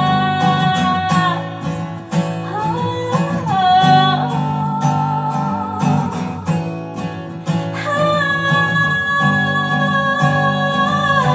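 Woman singing long held notes with vibrato over a strummed acoustic guitar, with no clear words.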